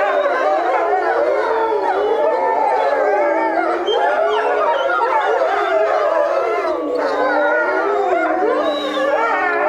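A pack of European wolves howling in chorus: many overlapping voices, each rising and falling in long wavering glides, with no break.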